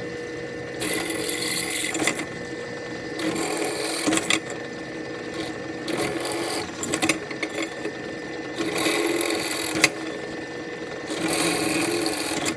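Electric drill running steadily while its bit cuts holes in a metal Harley Sportster exhaust baffle. The rough cutting noise rises in bursts of about a second, five times over, as the bit bites into the metal.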